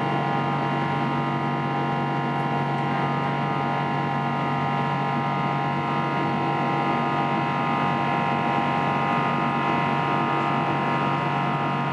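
Boeing 777-300's jet engines heard from inside the cabin: a steady, loud drone made up of many steady whining tones that hold their pitch throughout.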